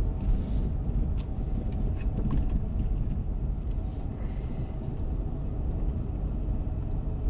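Dodge Grand Caravan minivan driving slowly, heard from inside the cabin: a steady low engine and road rumble with a few faint clicks.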